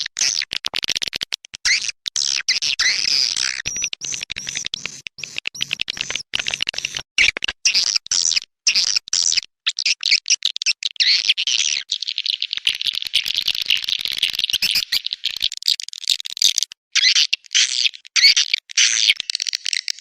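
Edible-nest swiftlet calls: dense, high-pitched chattering twitters and rapid clicking trills, broken by short gaps. A mixed lure recording of the kind played in a swiftlet house to call the birds in to nest.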